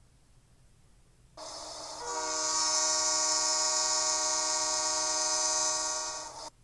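A train whistle sound effect: one long steady blast with a hiss, starting about a second and a half in, growing louder half a second later and cutting off just before the end.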